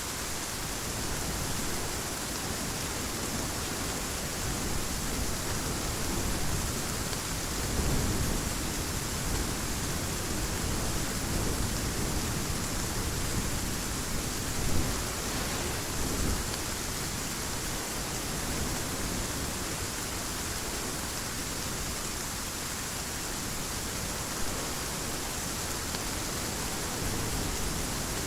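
Heavy rain falling steadily, with low rolls of thunder swelling and fading, the strongest about a quarter of the way in and again near the middle.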